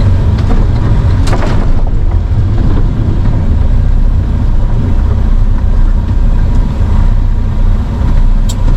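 Dump truck driving, its engine and road noise a steady low drone, with a short sharp click about a second in and another near the end.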